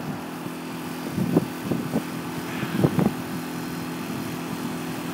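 Road traffic: a steady low engine hum, with a few short knocks about one to three seconds in.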